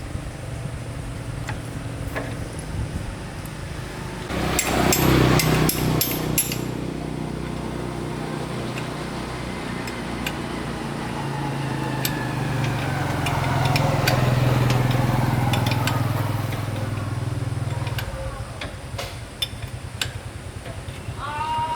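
A motor runs steadily at a low pitch. About four seconds in comes a burst of sharp metallic knocks and clatter. Later the motor swells louder, its pitch rising and then falling.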